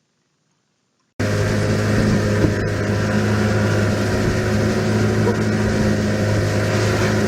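Near silence, then about a second in a steady engine hum cuts in abruptly and runs evenly.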